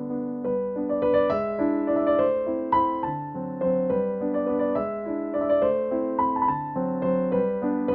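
Background music: a gentle melody played on electric piano.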